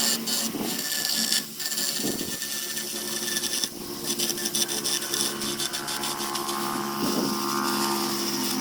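Handheld electric power tool running steadily and working wood: a constant motor hum under a noisy grinding texture.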